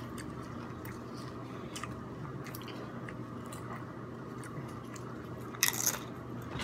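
A person chewing crunchy tortilla chips with the mouth closed, soft crunches scattered throughout over a faint steady hum. Near the end comes one louder, sharper crackle lasting about half a second.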